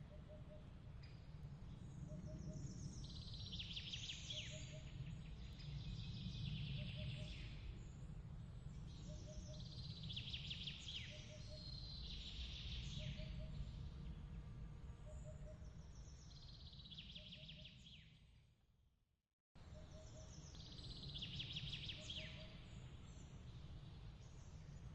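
A bird singing short repeated phrases every few seconds over a steady low rumble, with a soft triple chirp repeating about every second and a half. About three-quarters of the way through, everything fades to silence and then cuts straight back in.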